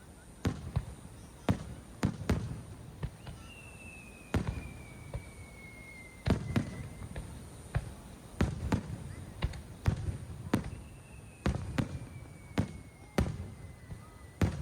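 Aerial fireworks shells bursting in a rapid, irregular series of sharp booms, each trailing a short low rumble. Twice a long thin whistle slides slowly down in pitch over about three seconds, once early on and once in the second half.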